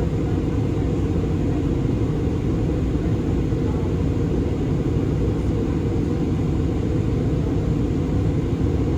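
Steady low rumble of engine and air noise inside the cabin of an Airbus A320 airliner, even throughout.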